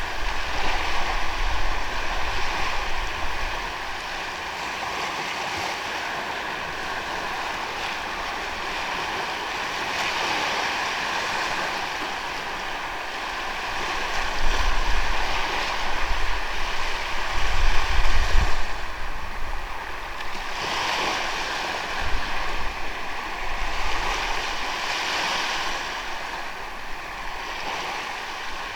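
Ocean waves washing onto a sandy beach: a continuous surf hiss that swells and eases as each wave comes in. Wind gusts rumble on the microphone now and then, strongest around the middle.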